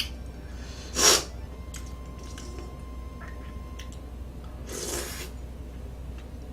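A person eating close to the microphone: a few small wet mouth clicks, and two short breathy bursts, a loud one about a second in and a softer, longer one near five seconds.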